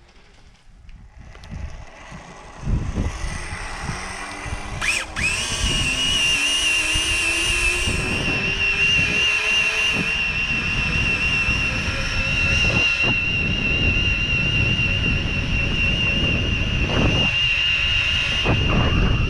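Homemade electric motorcycle accelerating: its motor whine rises steadily in pitch for several seconds and then holds, over a steady high-pitched whine and a low rumbling noise.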